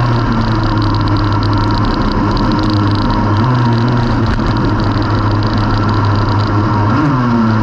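Racing kart engine running hard and continuously, its note dropping and climbing again a few times as the throttle is lifted and reapplied through corners.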